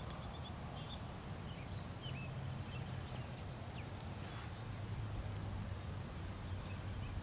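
Birds chirping and calling, many short high notes scattered throughout, over a steady low rumble.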